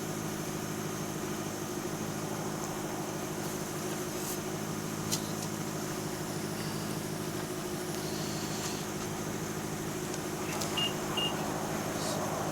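Steady low hum of an idling vehicle, with a sharp click about five seconds in and two short high beeps near the end.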